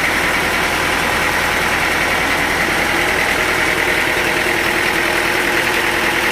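Sawmill machinery running steadily: a constant low engine-like drone under a high, even whine.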